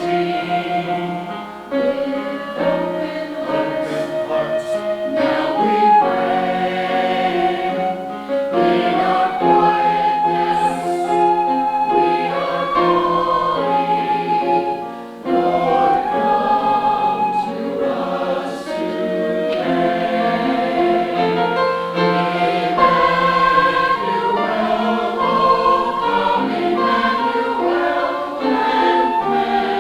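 Church choir singing held, sustained notes in phrases, with short breaks between phrases about two seconds in and again about halfway.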